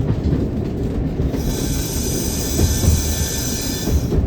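Train running with a steady low rumble. About a second and a half in, a high hissing squeal sets in; it lasts about two and a half seconds and stops shortly before the end.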